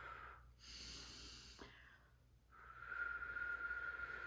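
A person blowing out long, steady breaths through pursed lips, with a short hissing breath about a second in, as a speech exercise.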